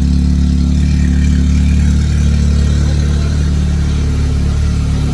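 Audi S3's turbocharged four-cylinder engine idling steadily with the turbo muffler deleted, giving no audible turbo whistle at idle.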